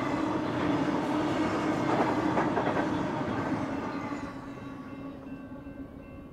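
Double-stack intermodal freight cars rolling over steel rails, with a cluster of wheel clicks about two seconds in. The noise fades as the last car passes about four seconds in.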